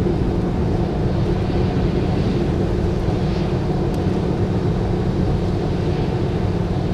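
Car driving at highway speed, heard from inside the cabin: steady road and engine noise.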